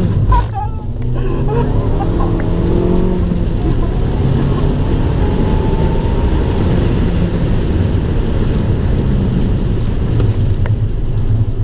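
Abarth 595 Turismo's 1.4-litre turbocharged four-cylinder engine running steadily under load at track speed, with a constant wash of road and tyre noise on the wet circuit. A faint whine rises in pitch about five seconds in.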